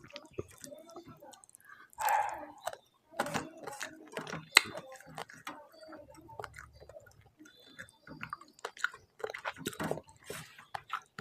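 A person chewing a mouthful of rice and khoira fish curry close to the microphone, with repeated wet mouth clicks and smacks.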